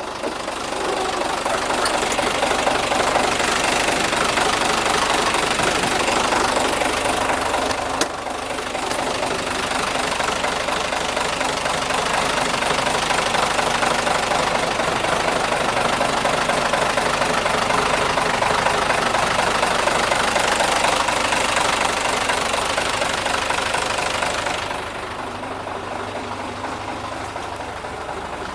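Mitsubishi 6D17 straight-six diesel engine of a 1998 Fighter dump truck running steadily at idle with a diesel clatter. It turns quieter and duller near the end.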